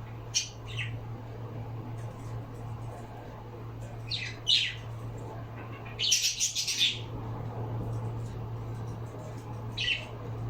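Pet bird giving short, sharp squawks and chirps in scattered bursts, with a longer harsh squawk about six seconds in, over a steady low hum.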